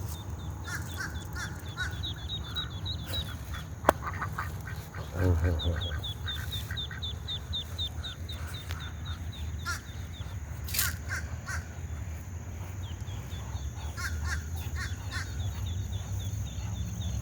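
Birds calling by a lake: a small bird gives three runs of rapid high chirps, each run a few seconds long, over scattered lower calls, with a short duck call about five seconds in. A steady low rumble runs underneath, and a single sharp click comes just before the duck call.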